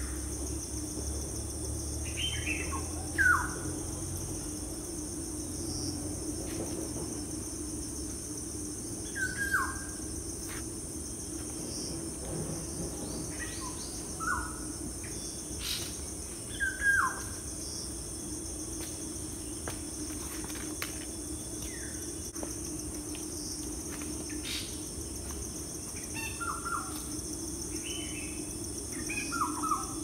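Birds calling in short notes that slide downward, one or two at a time every few seconds, over a steady high-pitched drone and a low steady hum.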